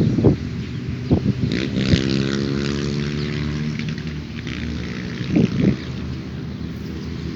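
A motor drones steadily, its pitch shifting slightly a couple of seconds in, with a few short bird chirps and some brief knocks over it.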